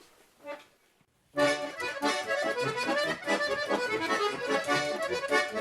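Garmon (Russian button accordion) starts playing the introduction to a folk song after a short pause about a second in.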